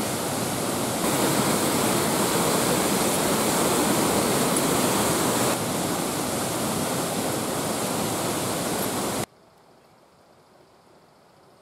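Waterfall, a steady rush of falling water. It gets louder about a second in, drops back a few seconds later, then cuts off abruptly about nine seconds in, leaving only a faint quiet background.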